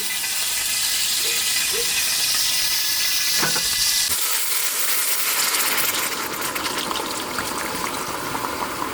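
Pork shoulder frying in hot oil, a steady sizzling hiss that eases slightly after about six seconds.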